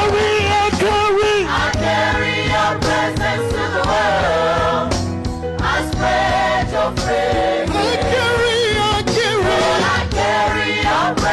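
Gospel music with a choir singing over a steady beat and bass.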